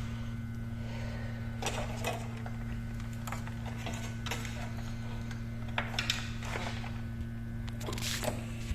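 Steady electrical hum, with scattered light clicks and rustles of handling at the workbench.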